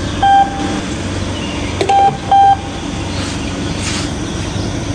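Steady running noise of a vehicle on the road, broken by three short, high beeps: one near the start and two close together about two seconds in.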